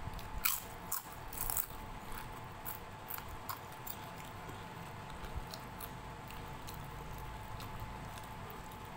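Close-up crunching bites of fried papad, loudest in the first two seconds, then softer chewing with scattered small crackles.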